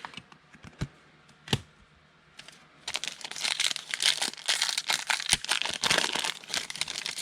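A few light clicks, then from about three seconds in a football trading-card pack's wrapper is torn open and crinkled.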